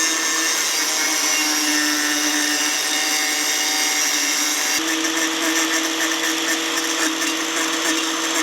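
Handheld power grinder whining steadily as it cleans up the weld on the face of an aluminum wheel, its pitch shifting slightly about five seconds in as the load changes.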